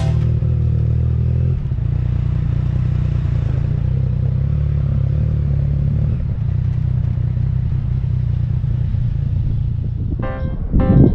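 Yamaha MT-09 Tracer's three-cylinder engine running at a steady speed, a low even drone with a slight change in pitch about a second and a half in. Music comes in near the end.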